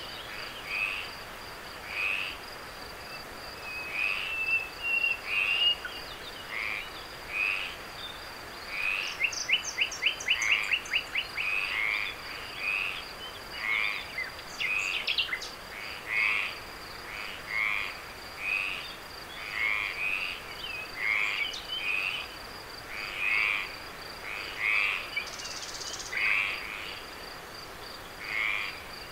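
Frogs calling at night, short croaking calls repeating about once a second, with a quick run of rapid clicking notes about nine seconds in. A steady high-pitched insect trill runs underneath.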